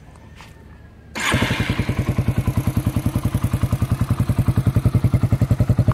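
Yamaha XTZ 125's single-cylinder four-stroke engine starting up about a second in and settling into a steady idle, about twelve even beats a second. It sounds much deeper and kind of thumpy through a Takegawa aftermarket exhaust, with the airbox restriction removed.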